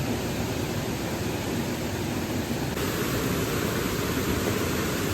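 Steady rushing noise with no distinct events, a little brighter and hissier from about three seconds in.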